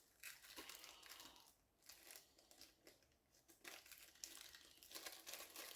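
Faint crinkling and rustling of small plastic packaging being handled and opened, in short spells with a quieter lull in the middle.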